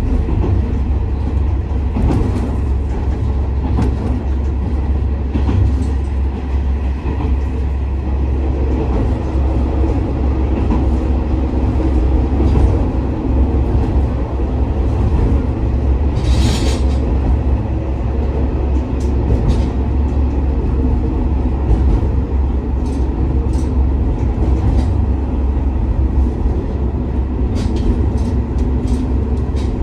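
Diesel railcar heard from inside, a steady low rumble of the engine and wheels on the rails, with light clicks now and then. About halfway through comes one sharper click, and several more follow near the end.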